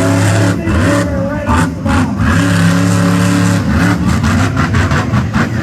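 Monster truck engine revving hard during a freestyle run, its pitch rising and falling as the throttle is worked. A quick run of sharp cracks comes about four seconds in.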